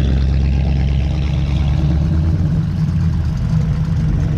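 A Chevrolet Camaro SS's V8 engine running as the car drives slowly past. About two seconds in, the deepest part of the engine note drops away and a somewhat higher engine note takes over.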